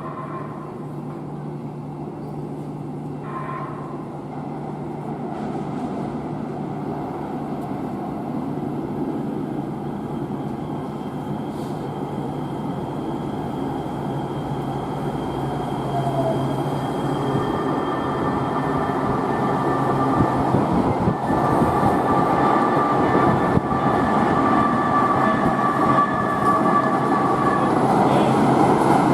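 LA Metro rail train in an underground station, its rumble growing steadily louder as it approaches. High steady whining tones join in about halfway through and build toward the end.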